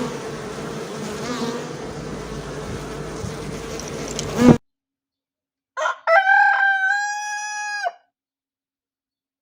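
Bees buzzing steadily, cut off abruptly after about four and a half seconds. After a second of silence a rooster crows once: a short rising start, then a long held note of about two seconds that drops at the end.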